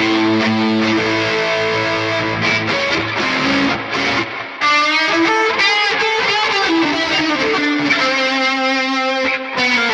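Electric guitar played through the Neural DSP Mesa Boogie Mark IIC+ amp-modelling plugin on its C+ lead setting: a distorted, high-gain lead line of sustained single notes, with vibrato wavering the pitch about halfway through.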